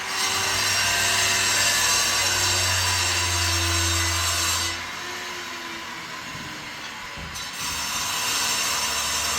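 A power tool running with a steady motor hum and a loud hiss. It drops back about halfway through, then starts up again about three seconds later.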